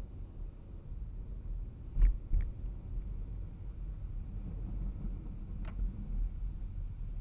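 A car driving, heard as a steady low rumble of road and engine, with two sharp knocks about two seconds in and a fainter click later.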